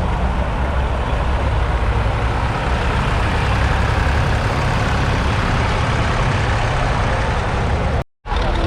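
Vintage tractor engines running steadily at low speed, a low rumble with a noisy haze over it. The sound drops out completely for a moment near the end.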